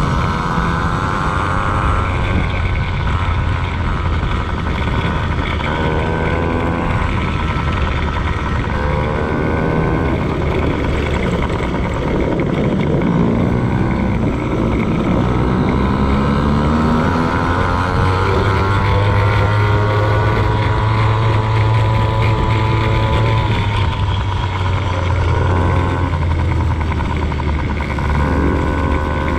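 Motocross dirt bike engine revving hard and easing off again and again, its pitch climbing and dropping every few seconds through the whole stretch, over a steady low rumble.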